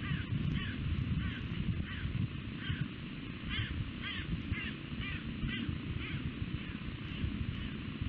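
A bird calling a run of short notes, about two a second, over a steady low rumble.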